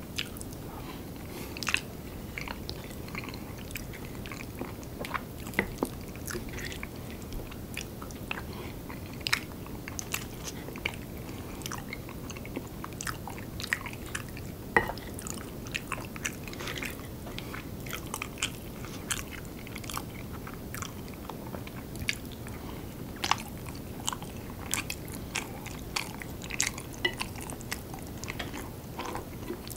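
Close-miked chewing and wet mouth sounds of a person eating curry rice, with many sharp scattered clicks and occasional spoon clinks on a ceramic plate, over a steady low hiss.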